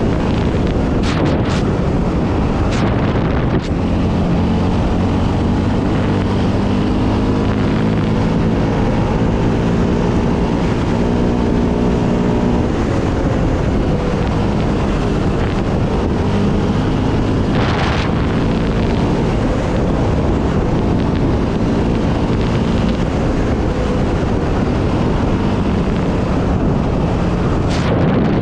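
Yamaha Raptor 700R ATV's single-cylinder four-stroke engine running steadily under way, with wind buffeting the microphone. The engine pitch shifts slightly about halfway through, and a few short sharp noises cut through now and then.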